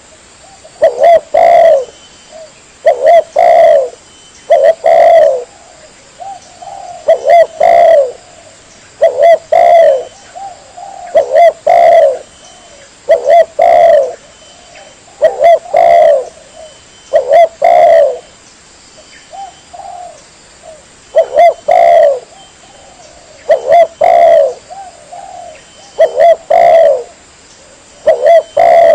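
Spotted dove cooing loudly, the same short phrase of a few notes repeated about every two seconds.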